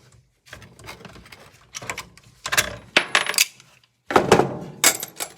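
A run of sharp metallic clinks and clatters as an old miter saw is taken apart, with metal parts and hand tools knocking together. The loudest clusters come about halfway through and a little after four seconds in.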